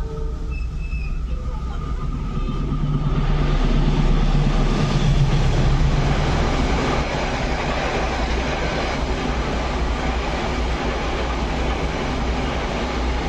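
Diesel train passing over a level crossing. The noise swells a few seconds in and is loudest with a steady low engine tone about four to six seconds in, then the cars run by with an even rumble on the rails.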